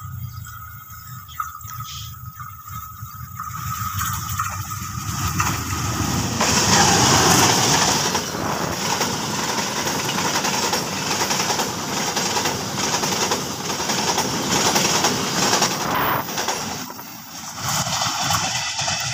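Passenger train hauled by a diesel-electric locomotive approaching and passing close by. The rumble builds to its loudest about seven seconds in, then a steady run of regular clacks from the wheels over the rail joints as the coaches roll past, dropping away near the end as the train recedes.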